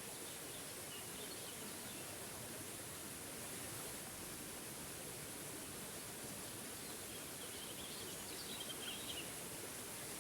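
Steady rush of a waterfall, with faint songbird chirps about a second in and again near the end.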